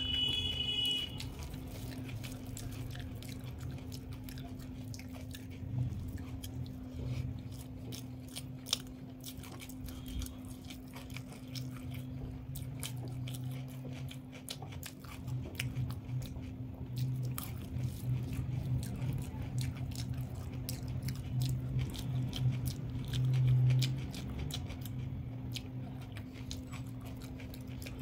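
A person chewing and biting food close to the microphone, with many small wet mouth clicks and crunches, over a steady low hum.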